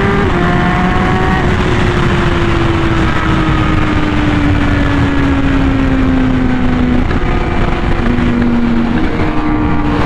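Honda Fireblade RR-R SP inline-four running at speed through its SC Project titanium exhaust, under a loud rush of wind noise. The engine note steps down with an upshift right at the start, then sinks slowly over several seconds as the bike eases off.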